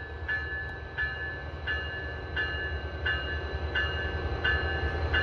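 A bell rings steadily, about three strikes every two seconds, over the low rumble of a Siemens SC-44 Charger diesel locomotive that slowly grows louder.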